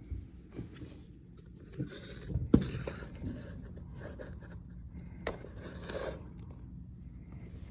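Irregular scraping and handling noises, with a sharp knock about two and a half seconds in, over a low steady hum.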